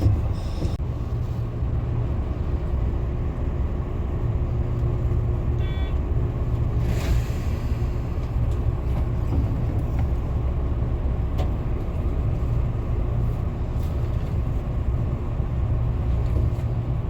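Tobu Tojo Line train running along the track with a steady low rumble, and a few light clicks and a brief swish about six to seven seconds in.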